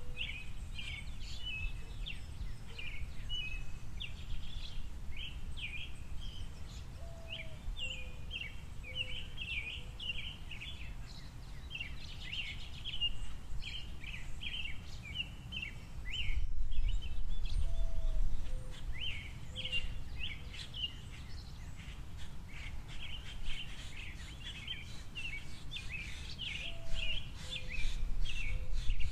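Small songbirds at a seed feeder chirping and twittering continuously over a steady low rumble that swells briefly about two-thirds of the way through. A faint low call made of a rising note and a few shorter notes repeats three times, about every ten seconds.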